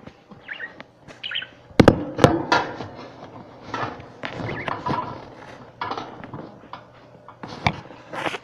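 Pet budgerigars chirping and chattering in short bits, with two loud thumps about two seconds in and a few lighter clicks.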